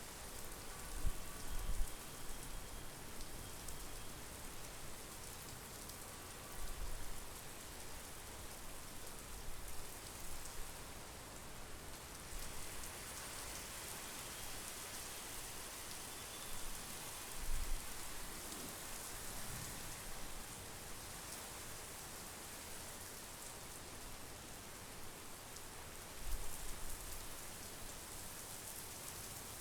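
Steady monsoon rain, a continuous even hiss. About four brief low buffets of wind on the microphone break in, near the start, about a quarter and more than halfway through, and near the end.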